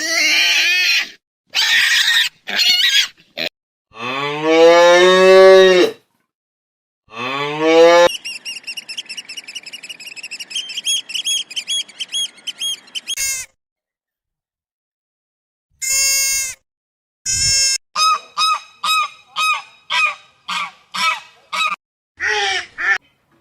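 A series of farm animal calls in short clips, each cut off by silence: two long, low moos about four and seven seconds in, followed by runs of quick, evenly repeated honking calls.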